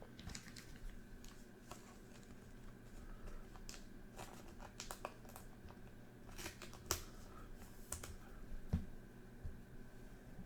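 Trading cards being handled and slid against one another: faint scattered clicks and rustles over a steady hum.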